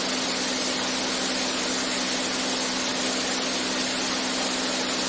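Beechcraft A36 Bonanza's single piston engine and propeller in steady cruise, heard inside the cockpit as an even drone with a constant low hum.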